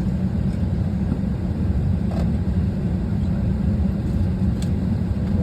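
Steady low rumble of an Airbus A320's cabin on the ground, heard from a passenger seat, with a couple of faint ticks.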